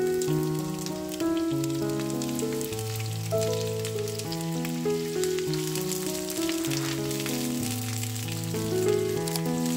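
Sliced red onions sizzling in hot oil in a non-stick frying pan, a steady hiss full of small crackles. Background music with slow, held melodic notes plays underneath.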